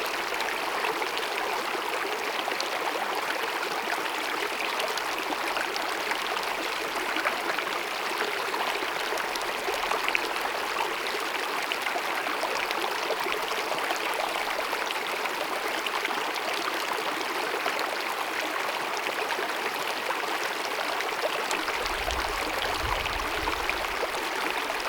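Small glacier-fed mountain meadow stream cascading and babbling: a steady, unbroken rush of running water.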